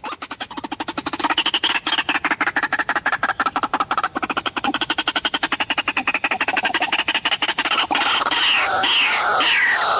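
White-breasted waterhen (ruak-ruak) calling: a long, fast, even run of chattering notes, about ten a second, that changes about eight seconds in to repeated falling calls, a few each second.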